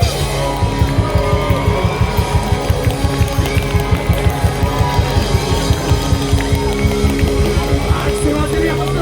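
Live rock band playing an instrumental passage: guitars and bass holding chords over a steady, fast beat of about four pulses a second.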